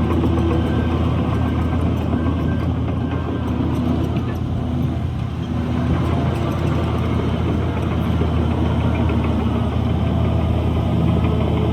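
Heavy diesel engine of an earthmoving machine running at a steady speed: a deep, even drone.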